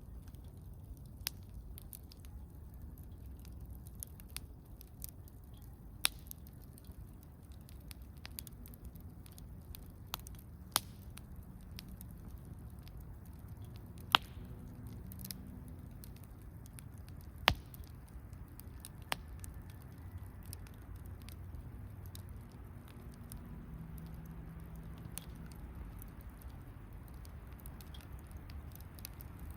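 Wood campfire crackling: sharp pops and snaps at irregular intervals, a few of them much louder than the rest, the loudest about halfway through and again a few seconds later, over a faint low steady background.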